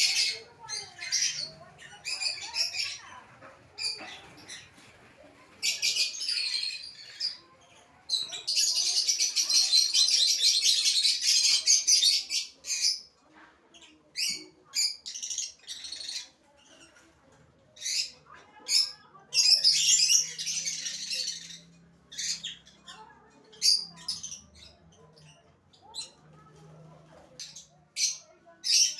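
Aviary birds calling: many short, sharp squawks and chirps, with two longer bouts of dense chattering, one about a third of the way in and one past the middle.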